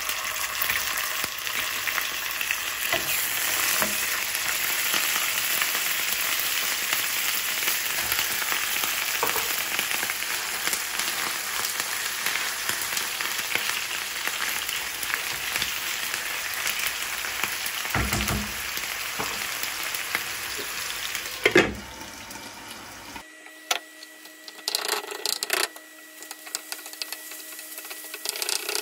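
Sliced onions, then minced chicken, sizzling in hot oil in a non-stick frying pan while a wooden spatula stirs them. Near the end the sizzle drops away, leaving short scraping strokes of the spatula on the pan.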